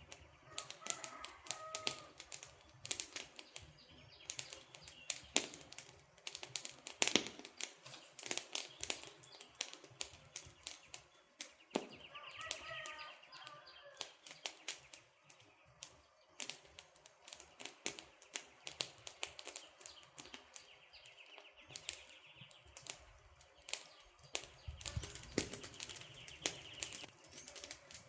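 Wood campfire crackling and popping in dense, irregular snaps. Short bird chirps come in about a second in and again about twelve seconds in.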